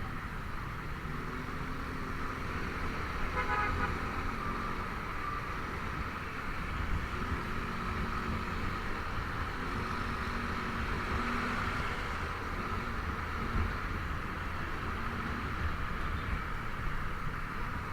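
Single-cylinder Honda Vario 125 scooter running steadily under way, with constant wind and road noise. A short vehicle horn honk sounds about three seconds in.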